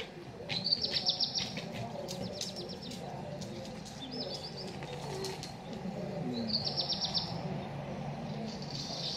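Small bird calling outdoors in short, rapid high-pitched trills, repeated about every two seconds.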